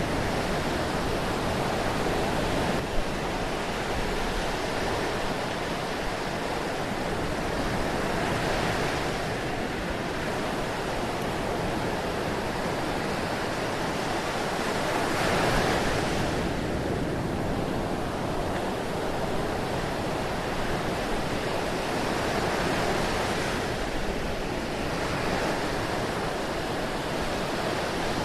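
Ocean surf: a steady wash of breaking waves that swells and eases every several seconds.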